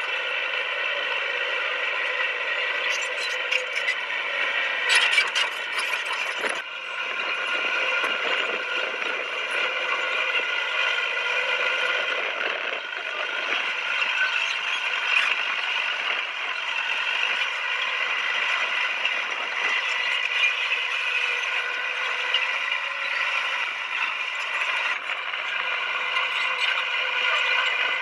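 Komatsu D20P bulldozer at work: its engine runs steadily, with a ratcheting clatter from the steel tracks, and there is a burst of sharper clanking about three to six seconds in.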